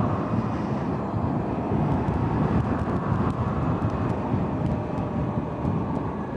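Zero S electric motorcycle on the move: a steady rush of wind and road noise with a faint, steady whine from the electric drivetrain above it, and no engine or exhaust sound.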